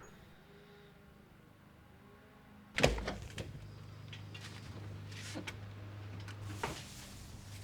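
A sharp click about three seconds in, then a small motor humming steadily, with several more clicks and knocks over it.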